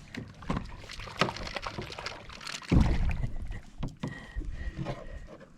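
Water splashing and scattered knocks against a kayak as a hooked tiger trout is drawn alongside to be landed, with one loudest low thump about halfway through.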